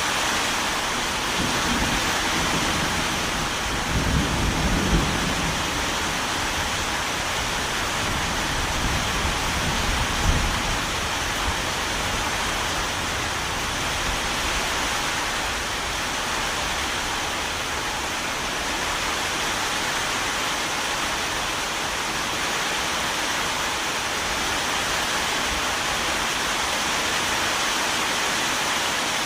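Steady rain falling, with low rumbles of distant thunder about four seconds in and again about ten seconds in.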